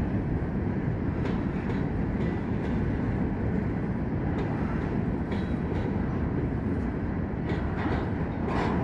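Freight train of covered hopper cars rolling across a steel truss trestle: a steady rumble of wheels with a few sharp knocks now and then.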